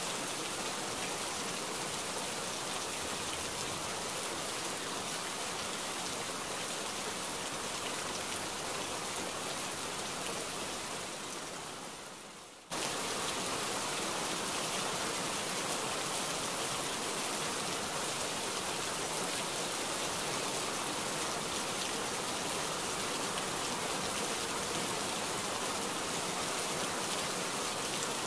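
A stream of water pouring and splashing steadily onto plastic toy cars and wet mud. Its level sags from about ten seconds in, then it cuts back in suddenly at full strength.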